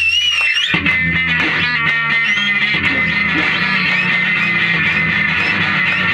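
A rock band playing live, led by electric guitar: a wavering high note at the start gives way to quickly picked notes and a long held high note over a steady bass.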